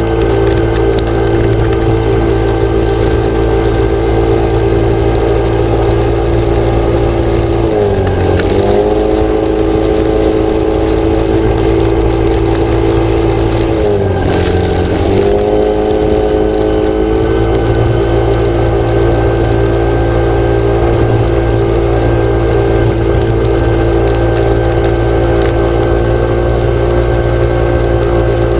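An engine or motor running steadily and loudly, its pitch dipping briefly and recovering twice, about eight and fourteen seconds in.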